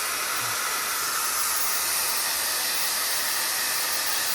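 Hot-air brush hair dryer running with a steady rush of air, blowing on hair while styling a curl.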